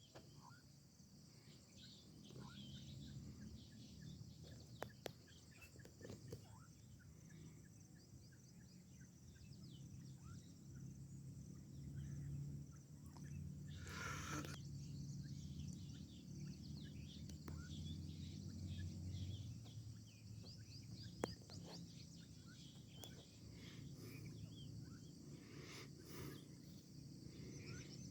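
Faint outdoor ambience: insects trilling steadily with scattered faint chirps, over a low rumble; the grey francolin is not calling.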